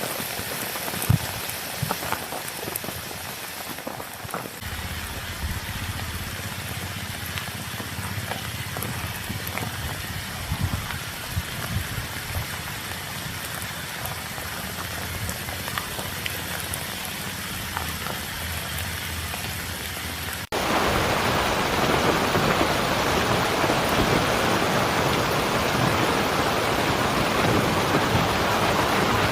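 Heavy rain falling, with separate drops clicking on a near surface. About two-thirds of the way through it cuts suddenly to louder, denser, steady rain.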